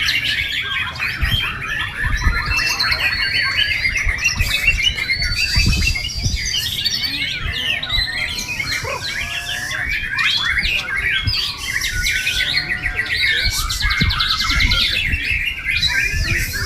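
White-rumped shama (murai batu) singing without pause: a rapid, varied stream of whistles, trills and chattering notes, with a few longer clear whistles early on. Dull low thumps come and go underneath.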